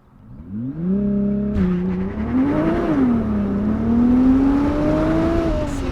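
Nissan GT-R R35's twin-turbo V6 under full-throttle acceleration, heard from inside the car: the engine note climbs hard, drops at a quick gear change about a second and a half in, then climbs again with a dip and a slower rise before easing off near the end. The tyres are struggling for traction.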